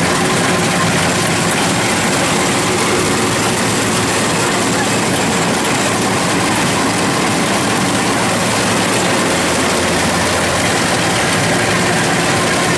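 Combine harvester's diesel engine running steadily at constant speed.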